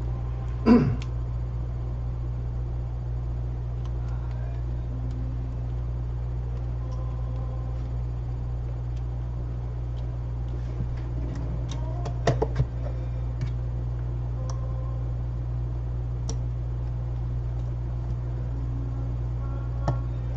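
Steady low hum with a few small clicks and taps of an iPhone being reassembled on a repair bench: one about a second in, a short cluster around twelve seconds in, and another near the end.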